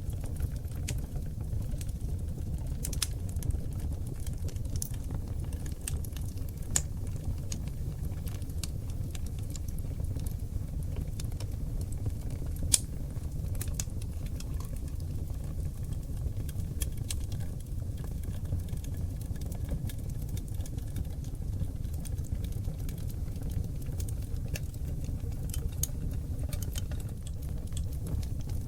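Seasoned oak logs burning in a fireplace: crackling, with scattered sharp pops over a steady low rumble of the flames, and one louder pop a little before halfway.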